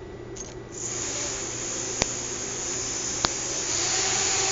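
Small hobby electric motor and propeller on a fischertechnik monorail carriage starting up about a second in after a tap, then running with a steady whirring rush. Two sharp clicks come during the run.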